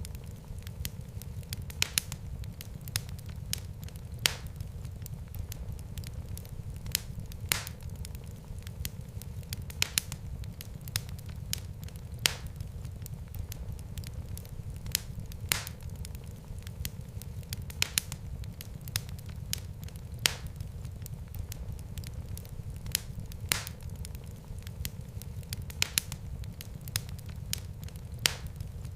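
Wood fire burning in a fireplace: a steady low rumble of flames with frequent crackles and sharp pops every second or two.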